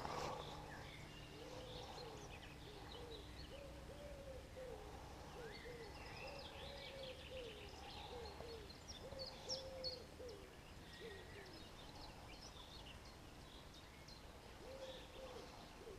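Faint birdsong: a run of short, low hooting notes repeated over and over, with thin chirps from other birds higher up.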